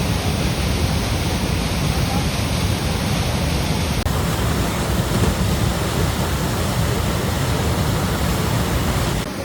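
Waterfall: a steady, loud rushing of falling water, with a brief dip about four seconds in and a drop in level just before the end.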